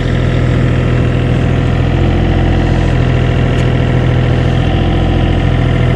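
Engine of a work vehicle idling steadily, an even low hum that holds throughout.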